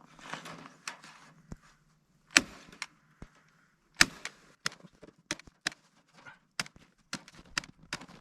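Scattered sharp knocks and clicks of wood and tools being handled during carpentry. Two louder knocks come about two and a half and four seconds in, followed by a run of lighter clicks.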